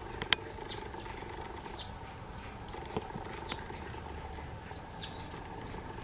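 A small bird chirping: short high hooked notes repeated about every second and a half over a steady background hum. One sharp click comes just after the start.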